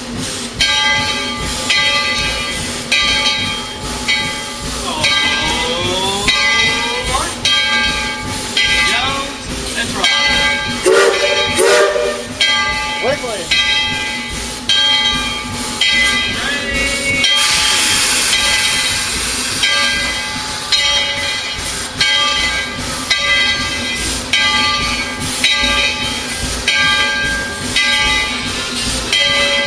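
Tweetsie Railroad #12, a narrow-gauge 4-6-0 steam locomotive, working from the cab: rhythmic exhaust chuffs about one and a half a second over a steady steam hiss. A few short rising and falling squeals come between about five and thirteen seconds in, and a louder rush of steam comes around eighteen seconds.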